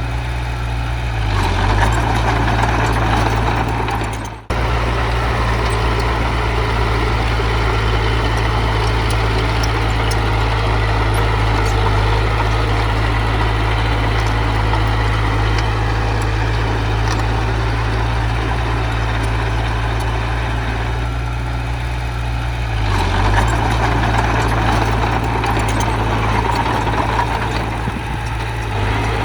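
Heavy diesel engine of earthmoving machinery running steadily. It swells louder about two seconds in and again from about twenty-three seconds, and there is a brief sharp dropout about four seconds in.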